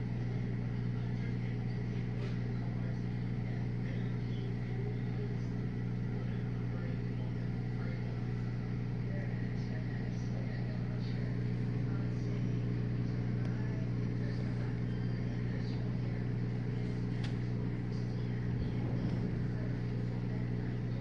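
Whirlpool dishwasher's drain pump running with a steady hum, pumping the water out.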